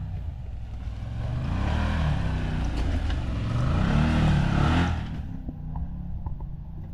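Can-Am Maverick Sport Max side-by-side engine revving up and falling back twice as it works over an obstacle. The revs drop away about five seconds in, leaving a lower running sound with a few faint clicks.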